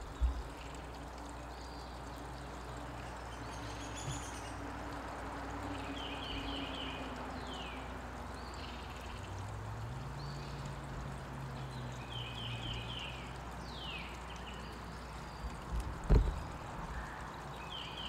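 Wild birds calling: short rapid series of four or five high notes, repeated a few times, and quick down-slurred calls, over a steady outdoor hiss. Two sharp thumps, one right at the start and a louder one about two-thirds of the way through.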